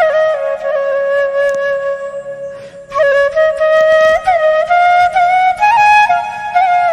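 Background music: a solo flute playing a slow melody of held notes with small ornamental slides, breaking off briefly about two and a half seconds in before going on.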